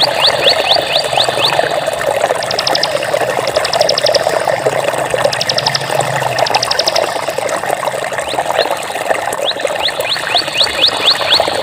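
Steady rushing of running water. Over it, a run of quick rising high chirps at the start and again near the end, and four short, rapid high trills in between.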